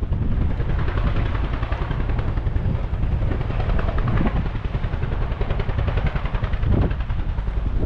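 Helicopter lifting off, its rotor blades chopping in a fast, steady beat over a low rumble.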